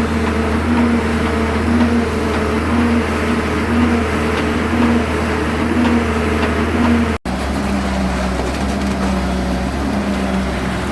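A vehicle engine running steadily with a pulsing drone. About seven seconds in the sound cuts out for an instant, and afterward the engine note is a little lower.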